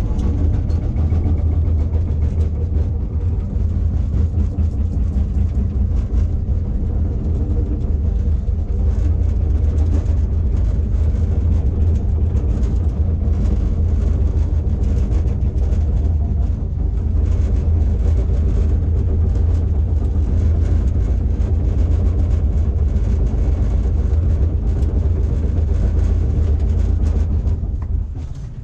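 Backhoe's diesel engine running steadily while the machine works, with a strong low hum and light scattered knocks; it eases off near the end.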